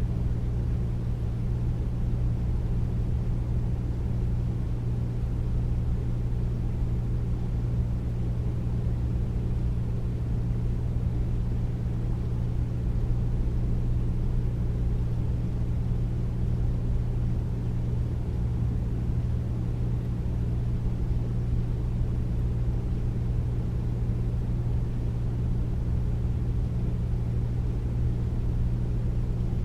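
Air conditioner running steadily: a deep, even noise with a constant low hum underneath, unchanging throughout.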